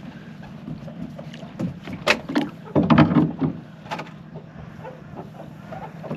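Knocking and clattering of gear being handled and set down in a boat, loudest in a cluster of knocks a couple of seconds in, with a sharp click at the end, over a steady low hum.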